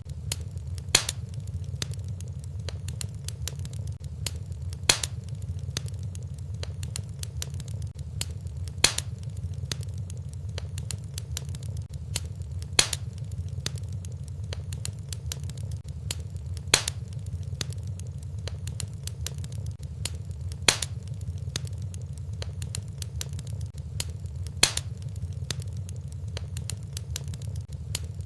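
Fireplace fire crackling steadily over a low rumble, with many small ticks and a sharper, louder pop about every four seconds.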